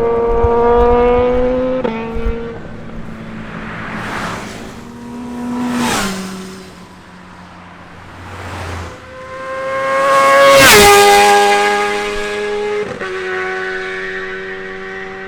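Superbike engines running at high revs as the bikes pass by. There are two passes: one about six seconds in and a louder one near ten seconds, where the engine note drops in pitch as the bike goes by.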